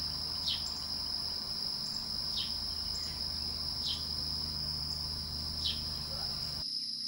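Steady high-pitched insect trill, like a cricket, with a short falling bird chirp repeating every one and a half to two seconds. A low hum underneath stops near the end.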